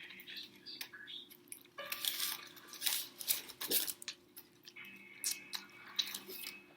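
Eating sounds close to the microphone: irregular chewing with soft crackling clicks, over a faint steady hum.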